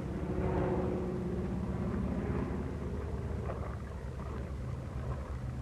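Twin piston engines of a Junkers Ju 88 bomber droning steadily in flight, a pitched hum over a rushing noise, heard through an old film soundtrack.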